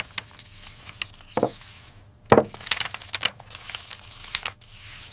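A few irregular sharp knocks and taps, the loudest a little over two seconds in, over a faint steady low hum.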